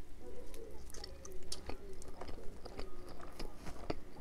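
Close-miked chewing and biting of a piece of Spam topped with fried rice, with many small mouth clicks.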